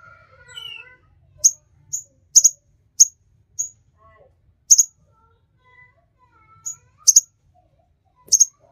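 Small songbird calling in short, sharp, high chirps at irregular intervals, some in quick pairs, with softer lower whistled and warbled notes between them.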